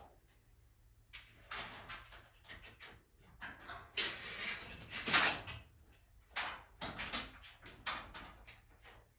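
Irregular metal clanks, clicks and scraping from tools and garage door torsion-spring hardware being handled, with the loudest bursts near the middle.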